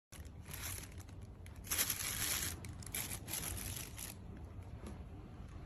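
Irregular crinkling and rustling, as of something being handled, in uneven bursts with the loudest stretch about two seconds in, over a low steady hum.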